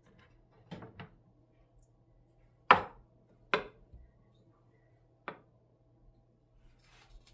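A kitchen knife chopping on a cutting board in five separate strokes, the loudest just under three seconds in.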